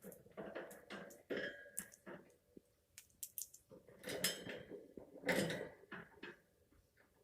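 African Grey parrot making non-word vocal noises: clicks and short gurgling, throaty sounds in a run of irregular bursts, the loudest about four and five and a half seconds in.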